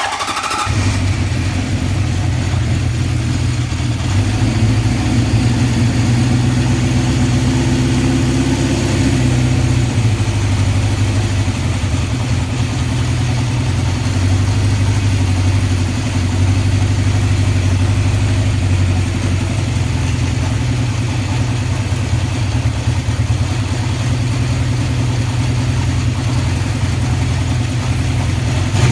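A 1974 Honda CB750's air-cooled inline-four engine fires up from cold and settles into a steady idle.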